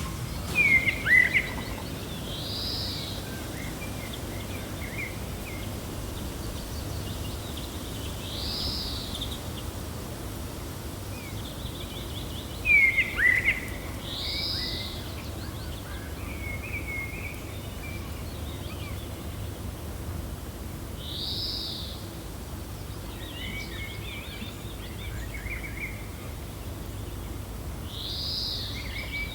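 Wild birds calling over a steady, low rush of wind. A short arched call repeats about every six seconds. Twice, a sharper, louder falling chirp stands out: about a second in and again near the middle. Small scattered chirps fall in between.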